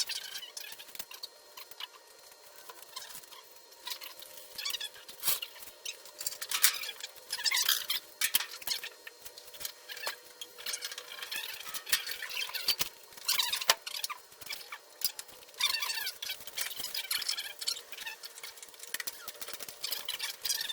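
Irregular metallic clinks, rattles and short high squeaks of hand work on the car's engine during its removal, coming every second or so with no steady machine sound.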